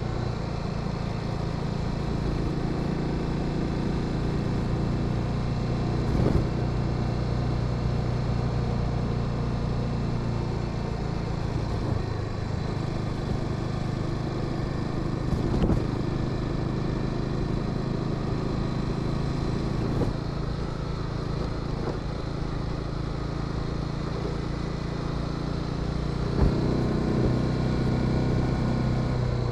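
Honda Sahara 300's single-cylinder engine running steadily while riding, its pitch rising and falling slightly, with wind and road noise and a few brief knocks.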